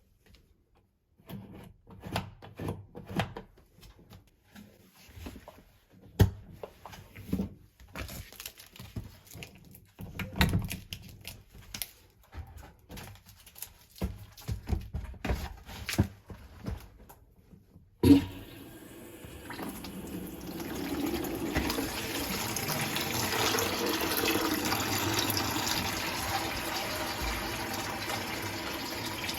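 Scattered knocks and clicks of hand work on plumbing fittings. About two thirds of the way in, a sharp knock is followed by water running steadily from an opened tap.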